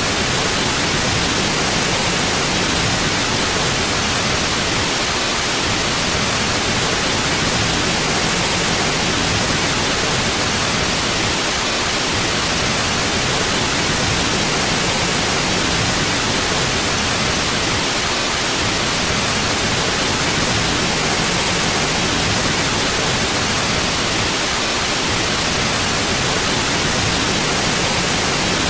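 Steady, unchanging white noise: an even hiss across the range with no other sound.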